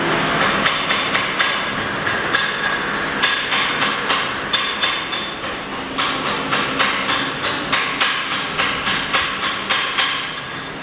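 Metal being struck repeatedly with a hammer, about three to four blows a second, each blow ringing briefly.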